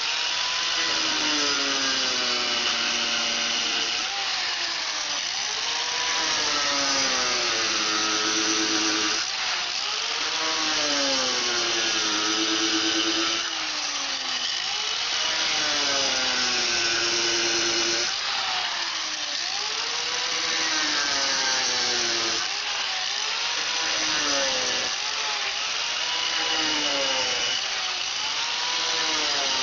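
Angle grinder cutting into ceramic tile. The grinding noise runs steadily, while the motor's whine repeatedly drops and climbs back, about every two seconds, as the disc is pressed into the tile and eased off.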